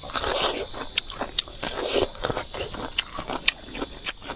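Close-miked biting and chewing of a pickled plum, with wet crunching and sharp mouth clicks; a longer crunching spell right at the start and another about two seconds in.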